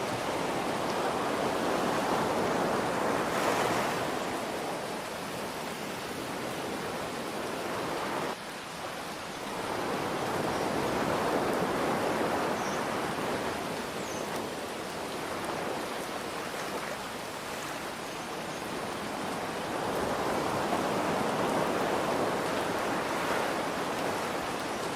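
Ocean waves washing in, swelling about every ten seconds, three surges in all, over a steady hiss of gentle rain.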